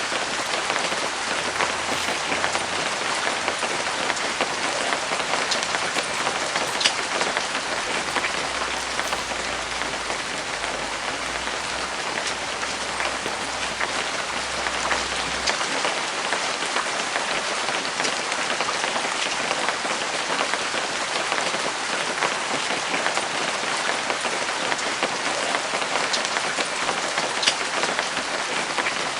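Steady light rain falling, an even hiss of drops with the occasional louder drop standing out.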